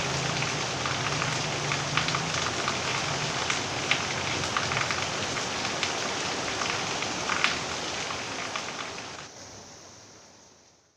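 Rain falling steadily, with scattered drops striking hard surfaces. A low hum underneath stops about three seconds in, and the whole sound fades away over the last two seconds.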